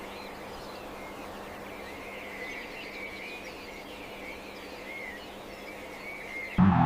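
Birds chirping in short, wavering calls over a steady background hiss and a faint low hum.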